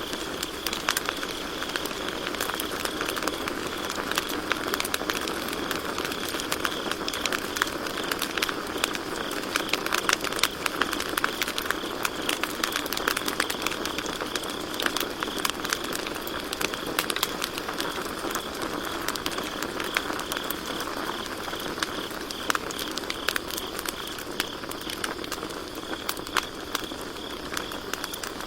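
Campfire crackling with frequent sharp pops over a steady hiss of burning wood, with crickets chirping steadily in a continuous high trill.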